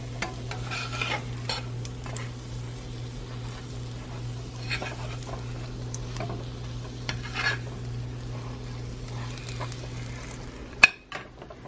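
Batter-coated cookies sizzling in hot oil in a small skillet, with a slotted metal spatula scraping and tapping against the pan over a steady low hum. The sound cuts off with a sharp click near the end.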